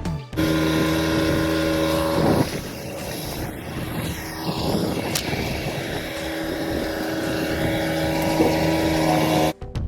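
A truck's engine running with a steady drone. A rushing stretch of wind or road noise swells over it in the middle, and it cuts off suddenly just before the end.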